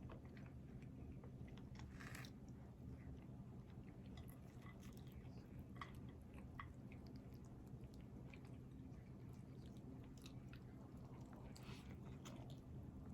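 A person chewing and biting food close to the microphone: soft, scattered mouth clicks and small crunches, over a steady low hum.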